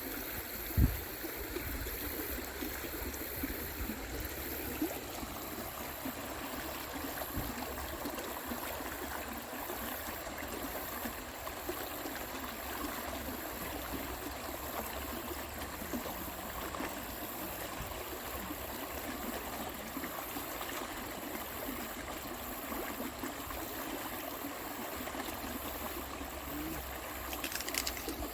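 Stream water running steadily. A brief low thump comes about a second in.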